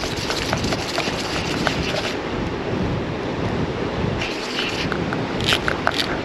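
Wind buffeting the microphone, a steady rumbling noise, with scattered small clicks and ticks and a few louder ones near the end.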